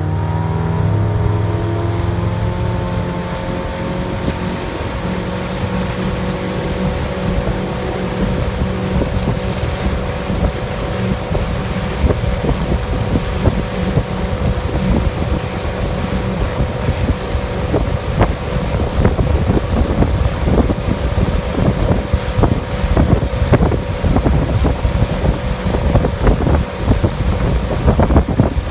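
Pontoon boat's motor running hard at high throttle while towing a water skier: its pitch finishes rising in the first couple of seconds and then holds steady. Wind buffets the microphone, more and more over the second half.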